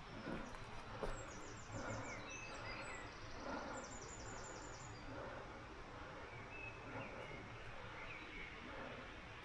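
Small forest birds singing: two quick trills of high repeated notes, with a few fainter chirps, over a steady outdoor background hiss.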